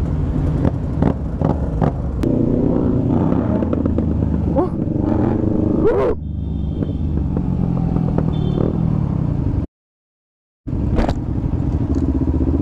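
Motorcycle engine running under way, its pitch shifting up and down, with repeated clattering knocks over it. The sound cuts out completely for about a second near the end, then the engine resumes.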